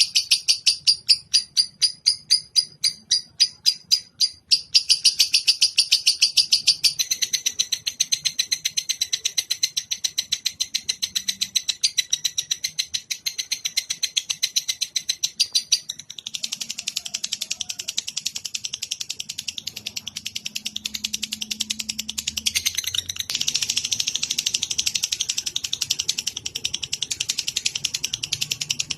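A caged songbird's song in a song-tutoring (masteran) recording: a long, fast chattering trill of high repeated notes that shifts its pattern several times.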